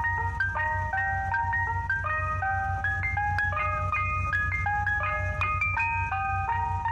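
Ice cream truck chime playing a bright, tinny electronic tune of quick stepping notes over a low steady rumble.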